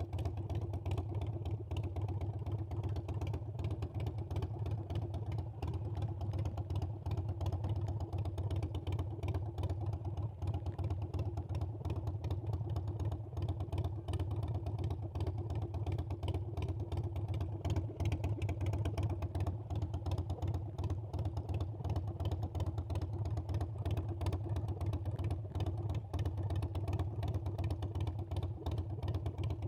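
Harley-Davidson Sportster Iron 883's air-cooled V-twin engine running steadily under way, its exhaust pulsing evenly with no sharp revs, heard from on the bike.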